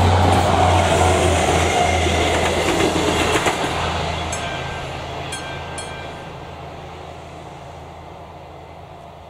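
Diesel passenger train running over a level crossing and moving away, a steady low engine hum and wheel noise that fade from about three seconds in, with a few sharp wheel clicks over rail joints along the way.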